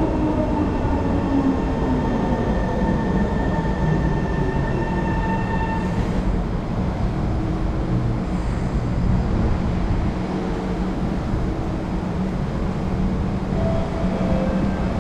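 Singapore MRT metro train running, a steady rumble with electric whining tones. A few falling tones come near the start, and higher whines stop about six seconds in.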